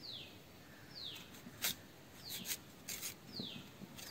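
A bird repeats a short, high, falling call about once a second. A few sharp clicks sound over it as a kitchen knife slices raw mango on a plastic cutting board.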